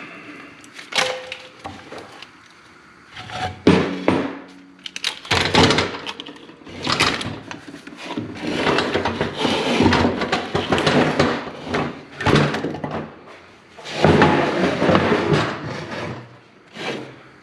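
Irregular knocks, thunks and scraping of a manual truck transmission being shifted about and set down on a wooden 2x4, metal against wood and metal.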